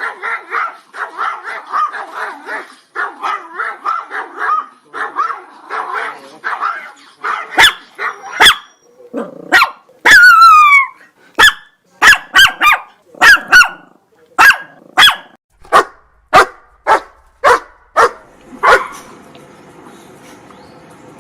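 Dogs barking: rapid high yapping for about the first seven seconds, then a run of single loud, sharp barks roughly half a second to a second apart, with one drawn-out falling yelp near the middle. The barking stops a couple of seconds before the end, leaving only faint background noise.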